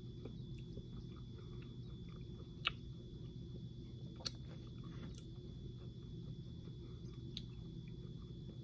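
A person chewing a small chewy candy with the mouth closed: soft wet chewing sounds and small clicks, with two sharp louder clicks about two and a half seconds in and again a second and a half later, over a steady low background hum.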